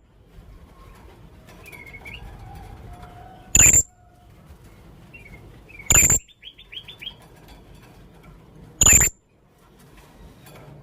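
Young blue-crowned hanging parrot giving three sharp, shrill calls about two and a half seconds apart. A quick run of about six short twittering notes follows the second call, with fainter chirps in between.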